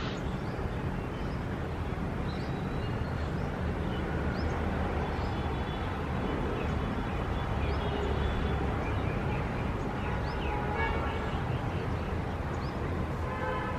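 City ambience: a steady low traffic rumble with birds chirping over it. Short high chirps come throughout, with a denser run of calls about eleven seconds in and again near the end.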